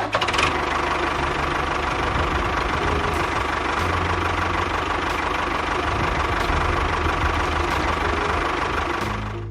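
A motor or engine running steadily with a rough, knocking texture; it cuts in abruptly and eases off just before the end.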